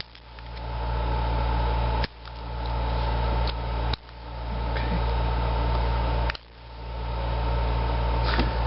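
Steady hum of a room air conditioner with a thin steady whine. It is broken three times by a sharp click from a flathead screwdriver working a stiff screw. After each click the hum drops out suddenly and swells back over a second or two.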